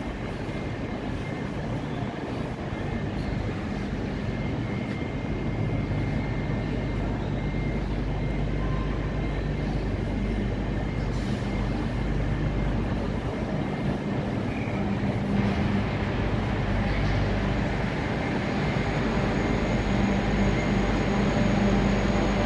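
Steady low hum of a Eurostar train standing at the platform, with the general noise of a large station hall around it; the hum grows slowly louder.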